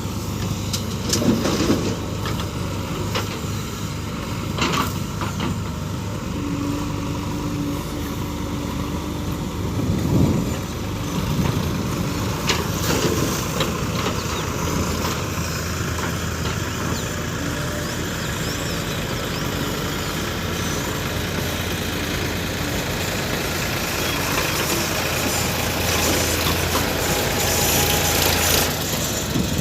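Heavy diesel engine running steadily, with a few brief louder bursts.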